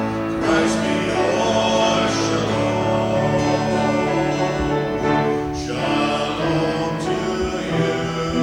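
Church worship music: voices singing with instrumental accompaniment of long held chords.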